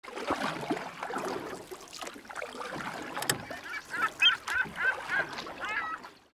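A run of short bird calls, about six repeated in quick succession in the second half, over a noisy wash that starts abruptly and fades out near the end.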